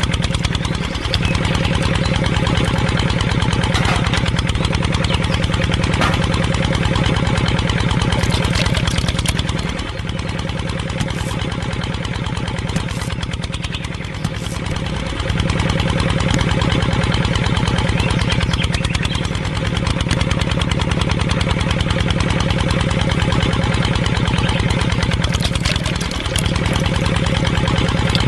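Small motor running steadily with a fast, even buzz, dropping briefly in speed and loudness a few times, about ten, fifteen and twenty-six seconds in, as if it were being loaded.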